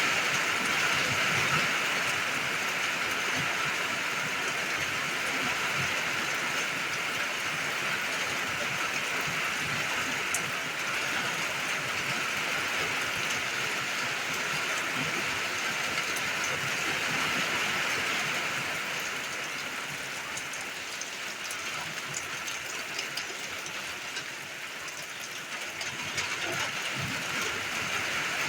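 Steady rain falling: an even hiss with scattered drips, easing a little about two-thirds of the way through before picking up again near the end.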